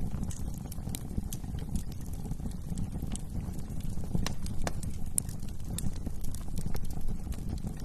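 Wood fire crackling, with irregular sharp pops and snaps over a steady low rumble of burning flames.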